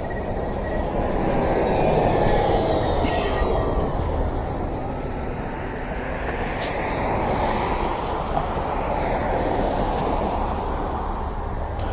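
Riding noise of an electric bike on wet pavement: a steady rush of tyres on the wet road and wind on the microphone, with faint rising and falling whines.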